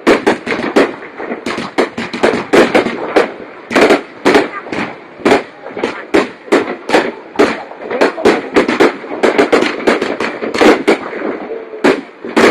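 Fireworks bursting overhead in a dense, irregular run of sharp bangs, several a second at times, over a steady murmur of crowd voices.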